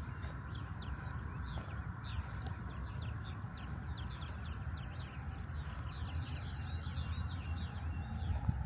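Birds chirping: a dense, continuous string of short, falling chirps from several birds, over a steady low rumble.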